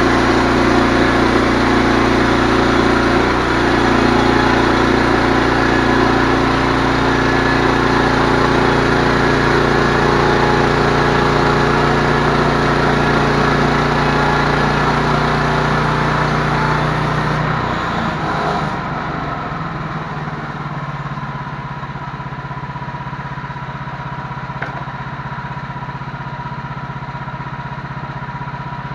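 An engine runs steadily and loudly. About two-thirds of the way through it drops to a quieter, steady lower running, as if throttled back to idle.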